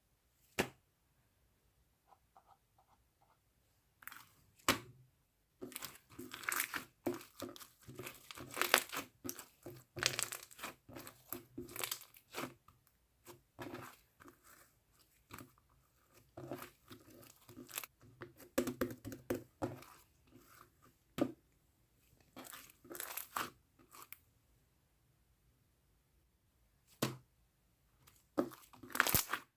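Mixed slime being handled and stretched by hand, giving irregular crackling pops and sticky snaps in clusters, with a quiet stretch at the start and another shortly before the end.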